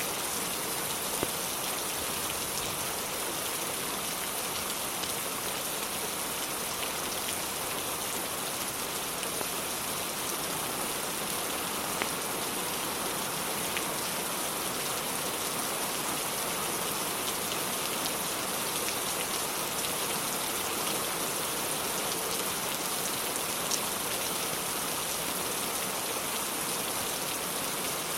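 Steady, even rain falling, with a few faint sharp ticks now and then.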